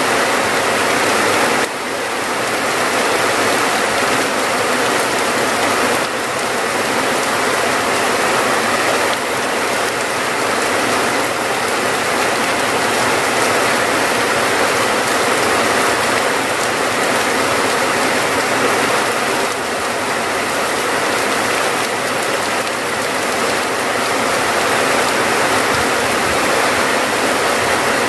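Steady heavy rain, a dense, even patter with no pauses.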